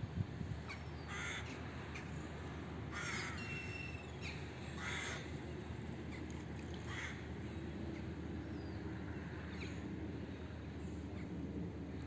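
Harsh cawing bird calls, about four a couple of seconds apart, with a few faint high chirps from small birds, over a steady low rumble.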